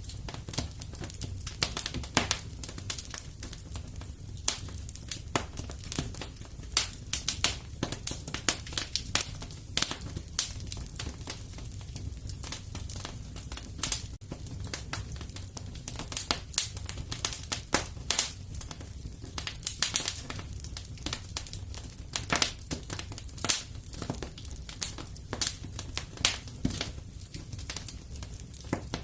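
Wood fire crackling in a fireplace: a dense, irregular run of sharp pops and snaps over a low steady rumble.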